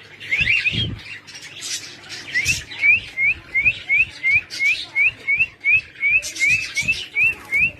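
Pet birds chirping and squawking: a string of short, rising chirps repeated about three times a second, mixed with harsher squawks and a few soft thumps.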